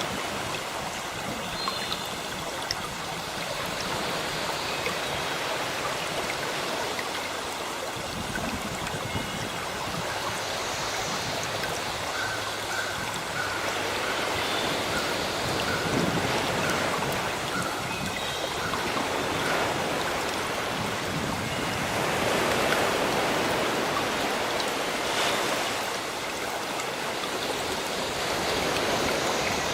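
Sea waves washing in a steady rush that swells and eases every few seconds, with birds chirping faintly now and then.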